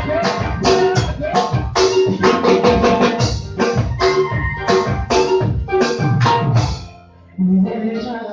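Band music without words: a drum kit keeping a steady beat under electronic keyboard chords. The music drops out for a moment near the end, then comes back in.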